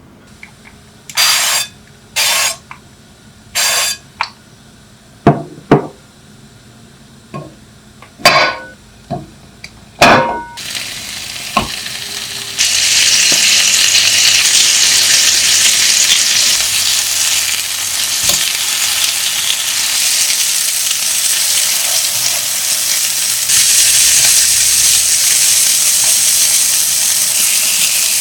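A few short scraping and knocking handling sounds, then food sizzling in a hot pan from about ten seconds in, jumping louder a couple of seconds later and holding.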